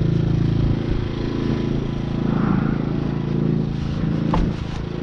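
A motor vehicle's engine running steadily, with a single sharp knock about four seconds in.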